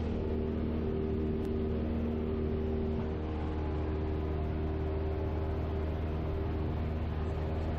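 Single-engine Cessna's piston engine and propeller running steadily in flight, heard in the cockpit as an even, unchanging drone.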